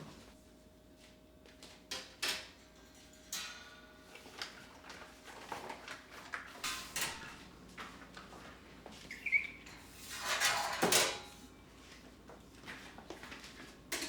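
Small household objects being handled: scattered light knocks and clinks, with a longer swish about ten seconds in.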